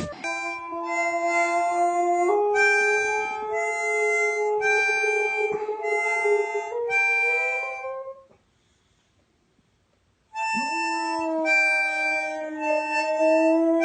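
Harmonica playing sustained chords, with a dog howling along. The sound breaks off about eight seconds in, there are two seconds of near silence, and then the harmonica and howling start again.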